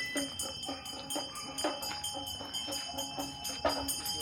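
Small bells jingling in a steady rhythm, about two shakes a second, with a bright ringing tone.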